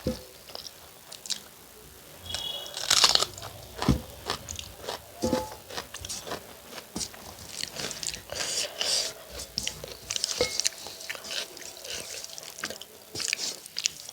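Close-up eating sounds: a person chewing and biting into food, with irregular crunches and wet mouth clicks.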